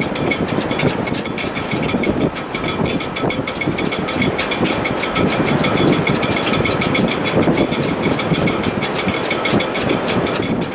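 Wind in a sailboat's shrouds in heavy weather: a loud, continuous rush that surges and eases, with faint steady whistling tones and a fast, fine rattle.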